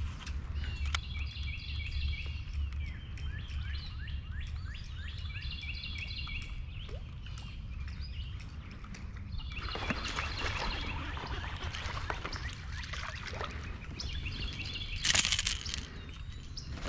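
Songbirds singing, repeated quick chirping phrases, over a steady low rumble. A brief louder rushing noise comes about fifteen seconds in.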